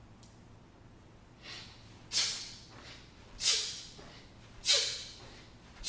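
Sharp, hissing exhalations, one with each kettlebell swing: a faint one, then four strong ones at an even pace about 1.2 s apart.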